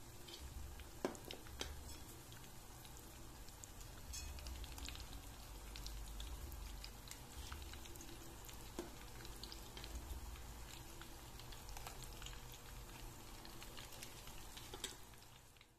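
Bolinho de chuva batter fritters deep-frying in a small saucepan of hot oil: a steady faint sizzle with scattered small pops and crackles, fading away at the very end.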